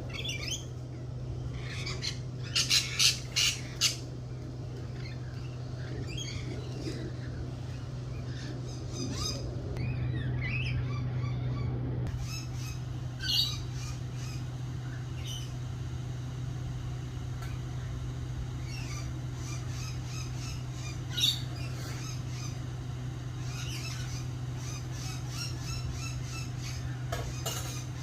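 Garden birds squawking and chirping, with a burst of about four loud squawks about three seconds in and single loud calls later, over a steady low hum.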